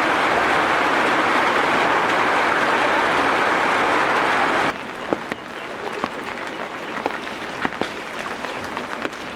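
Heavy rain falling steadily. About halfway through it drops abruptly to a quieter patter with scattered sharp drips.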